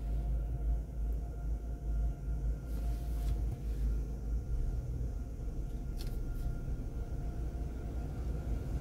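Steady low rumble of a car idling, heard from inside its cabin, with a faint steady hum over it. Two faint clicks come about three and six seconds in.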